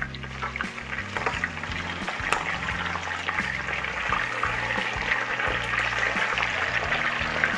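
Chicken pieces deep-frying in a pot of hot oil: a steady sizzle with many small crackles and pops.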